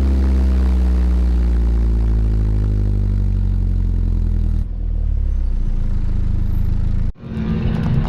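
Supercharged Mazda Miata's four-cylinder engine at speed, its revs falling steadily for about four and a half seconds. About seven seconds in the sound cuts briefly, then comes back harsher.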